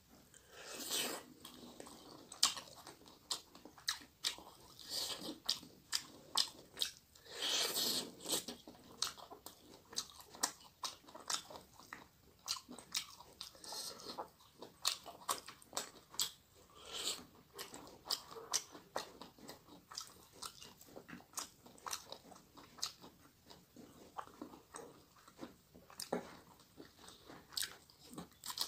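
Close-miked wet chewing and lip smacking of a person eating rice and fish curry by hand, heard as many short sharp clicks with a few longer, noisier mouthfuls.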